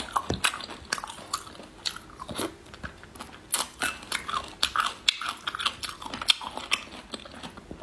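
Close-miked chewing and biting of food, a dense string of short sharp mouth clicks throughout.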